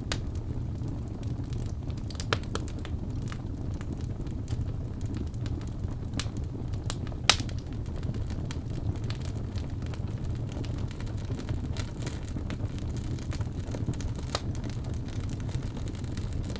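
Wood fire burning in a fireplace: a steady low rumble of the flames with scattered sharp crackles and pops, two of them louder, about two seconds in and about seven seconds in.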